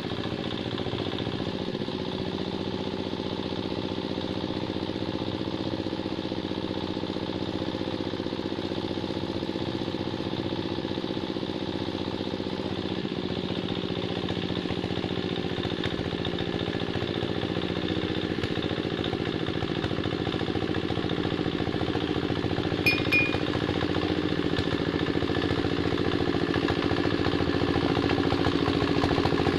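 Quick Capung Metal two-wheel hand tractor's engine running steadily under load while it works a paddy field, growing slightly louder toward the end. Two short sharp clicks are heard about three-quarters of the way through.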